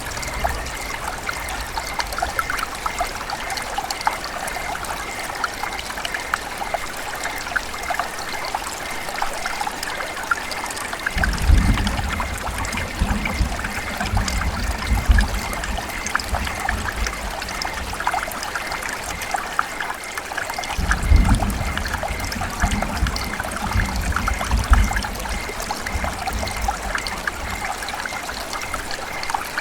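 River water running and trickling steadily over stones, a continuous gurgle and splash. Two spells of low rumbling come through, near the middle and again later.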